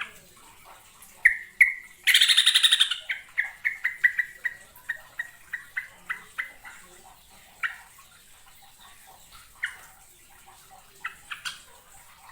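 Yellow-vented bulbul (trucuk) calling. A loud, fast chattering burst comes about two seconds in and trails off into a slowing run of short notes. Scattered single notes follow.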